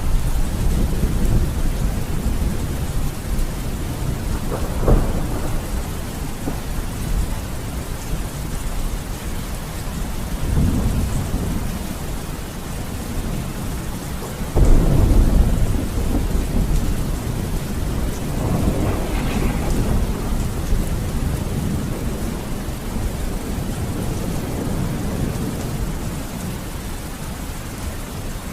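Steady heavy rain with rolling thunder: low rumbles swell and fade several times, with a sharp crack about five seconds in and the loudest clap beginning about halfway through.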